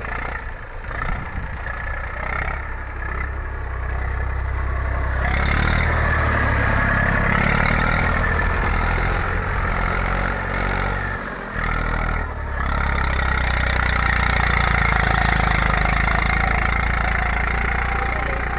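Eicher 380 tractor's diesel engine running steadily. It grows louder about five seconds in and dips briefly twice near the middle.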